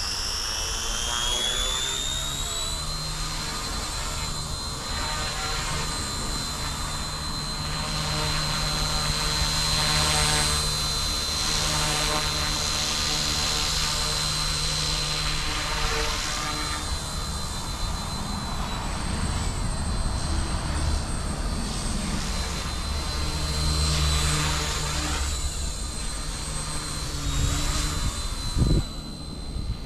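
Eachine E160 micro RC helicopter's electric motors and rotors spooling up to head speed: a high whine rising in pitch for the first few seconds, then holding steady with a rotor buzz that swells and dips as it flies. A short thump near the end.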